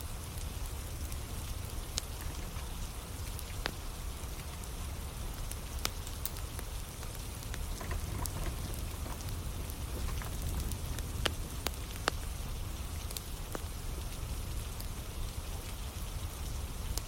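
Steady rain falling with a wood fire burning, scattered sharp crackles and pops from the burning logs over the even hiss of the rain.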